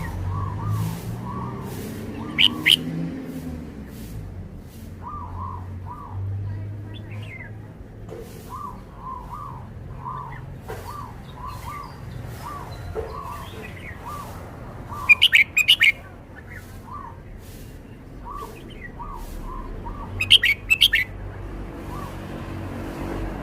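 Red-whiskered bulbul singing: three short, loud song phrases, about two seconds in, around fifteen seconds and around twenty seconds, over a steady string of quieter, lower chirps repeating throughout.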